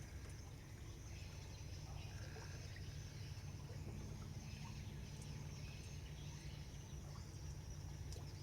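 Faint outdoor ambience: a low steady hum with a few faint bird chirps and insect sounds over it.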